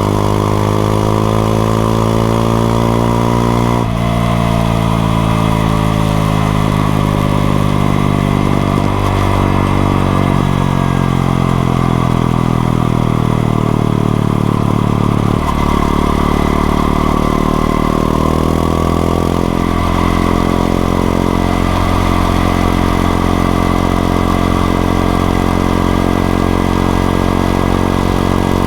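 Honda XRE 190 single-cylinder four-stroke motorcycle engine running under way. Its pitch climbs, drops suddenly about four seconds in, holds fairly steady, drops again around the middle, then climbs and eases as the ride goes on.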